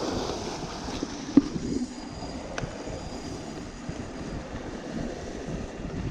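Outdoor wind and water noise, rough and uneven, with two sharp knocks about one and a half and two and a half seconds in.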